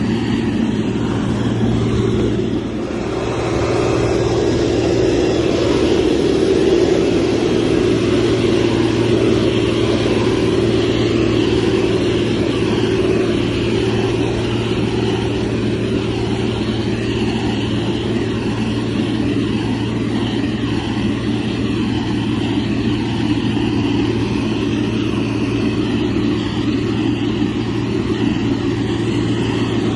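Motor grader's diesel engine running steadily, with a brief dip in level about two and a half seconds in.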